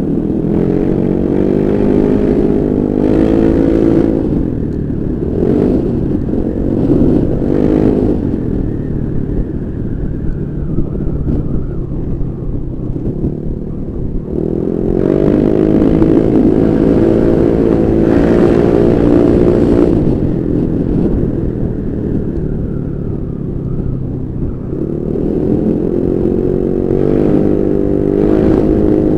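Honda Vario 125 scooter's single-cylinder four-stroke engine through an aftermarket Pro Liner racing exhaust, pulling hard three times: at the start, about 15 seconds in and about 25 seconds in. It eases off in between.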